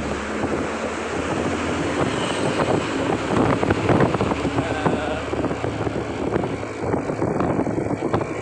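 Truck engine running under way, with wind buffeting the microphone.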